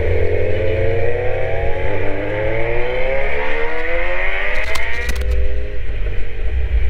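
Kawasaki Z900's inline-four engine pulling up through the revs in a long steady rise for about five seconds, then levelling off, with a few sharp clicks just before it levels, over a heavy low rumble.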